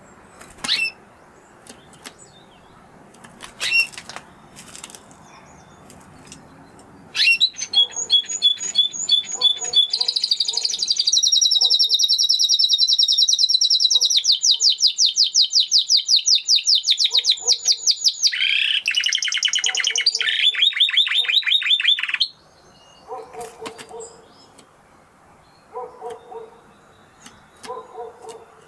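Spanish Timbrado canary singing: a few short chirps, then a long song of fast, high trills that changes pace several times and stops suddenly about three quarters of the way through, followed by softer scattered chirps.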